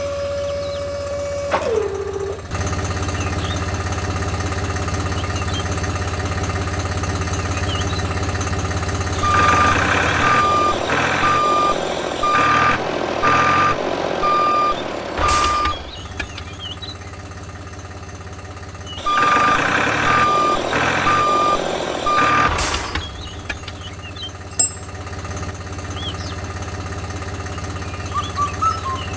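Electronic reversing beeps from a small model vehicle: a single-tone beep about once a second in two runs, the first of about seven beeps and the second of about four, over a steady low motor hum.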